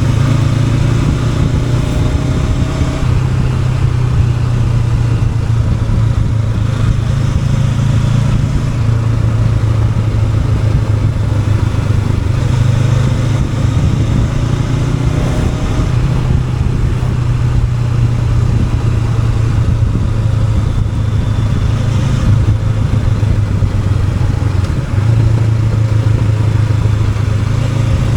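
Honda NX500's parallel-twin engine running while riding, its pitch rising and falling a little with the throttle over a steady low rumble.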